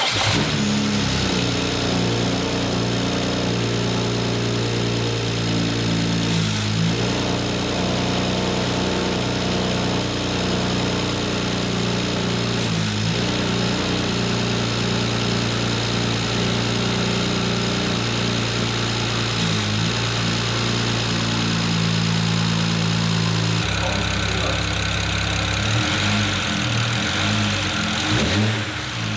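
BMW N54 3.0-litre twin-turbo inline-six in a 335i idling steadily just after its first start following a rebuild and reinstall. The idle note shifts a few times.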